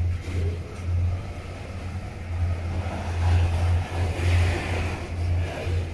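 Loaded covered hopper cars of a freight train rolling past close by: steel wheels running on the rails with a low rumble that swells and eases every second or so.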